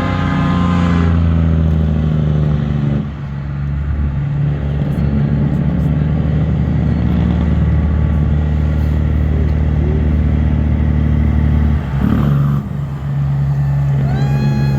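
Big diesel truck engine running with a deep, steady rumble, its pitch dipping briefly twice. A held pitched tone ends about a second in.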